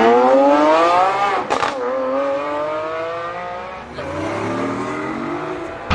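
Supercar engine accelerating hard through the gears, its pitch rising steadily, with a gear change about a second and a half in and another about four seconds in.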